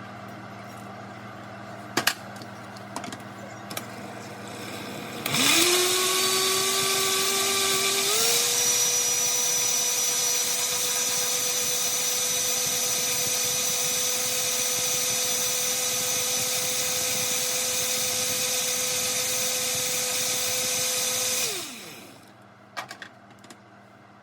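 Countertop blender puréeing tomatoes, garlic and water into tomato sauce. The motor spins up with a rising whine, steps up in pitch about three seconds later, runs steadily for about thirteen seconds, then winds down. A sharp knock and a few light clicks come before it starts, and a couple of clicks follow after it stops.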